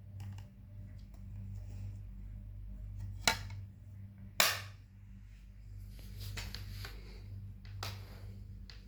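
Slime being worked by hand, giving small clicks and two sharp pops about three and four and a half seconds in, over a steady low electrical hum.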